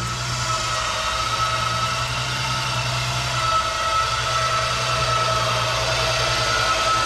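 Jeep engine running steadily under load as it drags a heavy old boat free, with a steady high whine over the low engine note.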